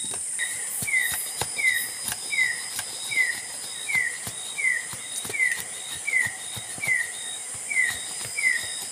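Forest ambience: a steady high-pitched insect drone, with a short falling bird call repeated evenly about every three-quarters of a second.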